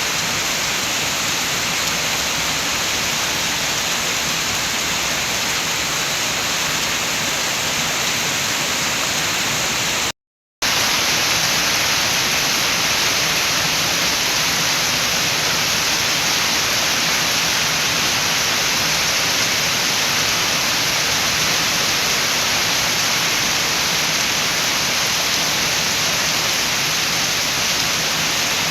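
Steady rain with wind, a dense even hiss. The sound cuts out completely for a fraction of a second about ten seconds in, then comes back slightly brighter.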